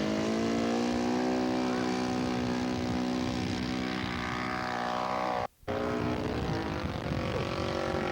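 Radio-controlled model airplane engine running in flight, a steady pitched buzz that sinks in pitch over the second half. The sound breaks off for a split second about two-thirds of the way in.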